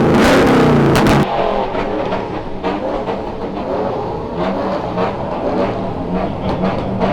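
Car engines revving: a loud rev that cuts off abruptly about a second in, then a quieter engine idling and blipping.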